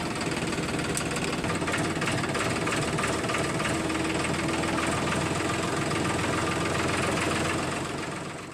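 A small motor-driven machine running steadily with a low hum and a fast rattle, fading out near the end.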